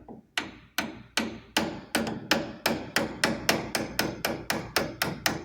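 Hammer tapping a knotter part into place on a Massey Ferguson 224 baler. The blows are sharp and steady, about three a second, quickening slightly as the part is driven all the way through.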